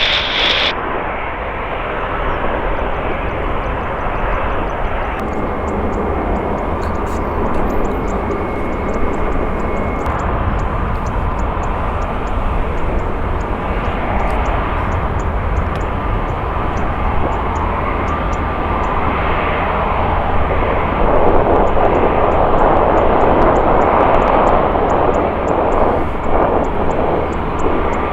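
Jet airliner engines roaring on the runway, a loud, steady rushing noise that swells louder about three-quarters of the way through.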